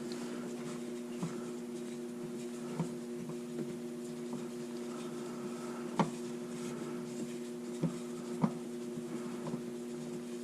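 A steady electrical hum throughout, with scattered light clicks and knocks of hand work on the truck's oil filter, the sharpest knock about six seconds in.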